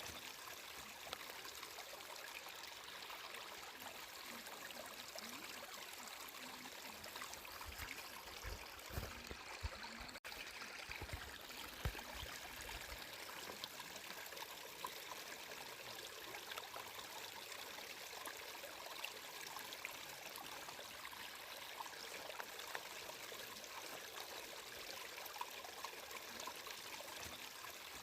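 Water flowing steadily, with a few low thumps and a momentary dropout about ten seconds in.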